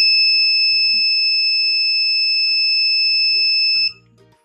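Buzzer of a breadboard infrared proximity alarm circuit sounding one steady, high, loud beep as the circuit is switched on, cutting off suddenly about four seconds in.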